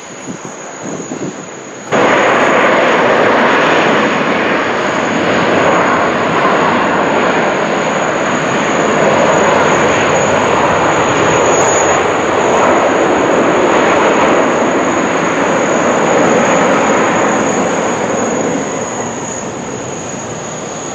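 Jet airliner engines running loud, a dense rushing roar that comes in abruptly about two seconds in and eases slightly near the end. A thin, steady high-pitched tone sounds underneath throughout.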